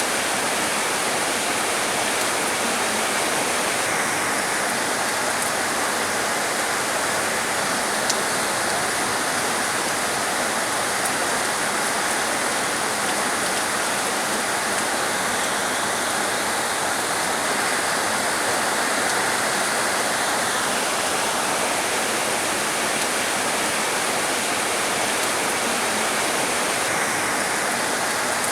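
Heavy rain falling steadily: a dense, even hiss of rainfall. A higher layer of the hiss comes in a few seconds in, drops out after about twenty seconds and returns near the end.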